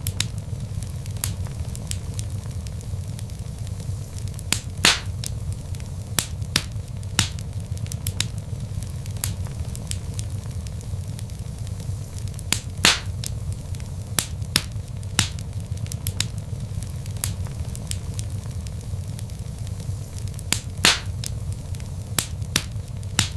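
Wood fire of burning logs crackling, with irregular sharp pops over a steady low rumble of flames; a few louder pops stand out.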